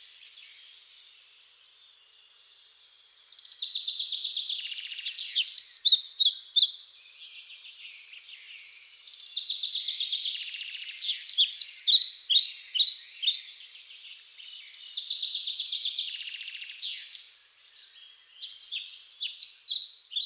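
Songbird singing, phrase after phrase of quick chirps and rattling trills, each a few seconds long, with short pauses between.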